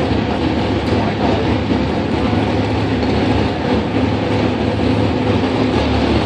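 Pulling truck's engine running hard under load as it drags the weight sled: a loud, steady drone with a heavy rumble.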